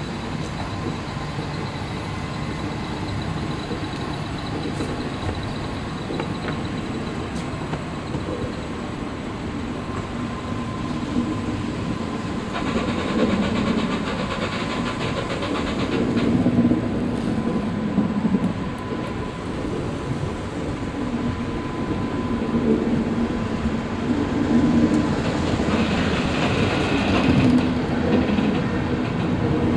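Locomotive-hauled passenger coaches rolling slowly along a station platform, wheels clicking over the rails, with a faint steady whine. Two spells of hiss come about halfway and again near the end, and the sound grows louder in the second half.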